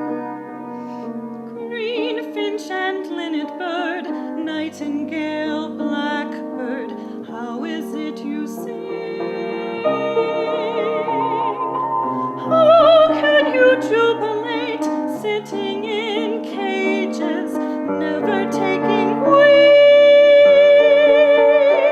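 Piano accompaniment with a wordless soprano vocalise: high notes sung with vibrato over steady piano chords, rising to a loud held note near the end.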